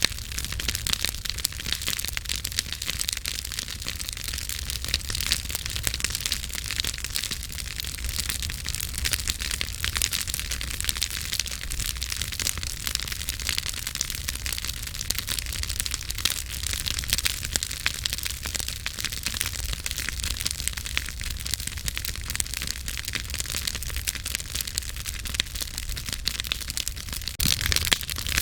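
Campfire burning with a continuous dense crackle and frequent small pops over a low steady rumble.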